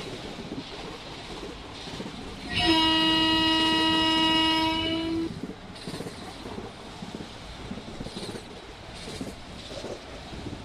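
Electric train's horn sounding one steady blast of about two and a half seconds, a little after the start, over the steady noise of the train running on the rails.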